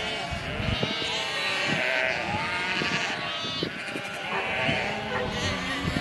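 A large flock of sheep bleating, with many overlapping calls throughout.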